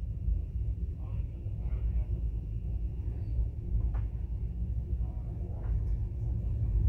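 Steady low rumble of a moving train, heard from aboard the carriage.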